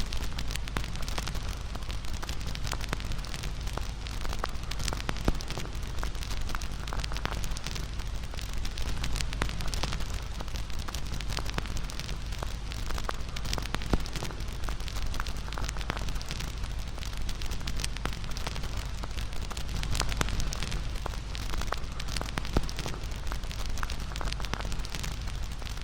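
Wood fire burning, crackling steadily with dense small snaps and a few louder pops, over a low steady rumble.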